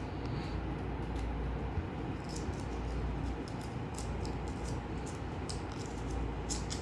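Faint crackling and rustling of paper as a crumpled sticky note is unfolded, in scattered small crackles over a steady low hum.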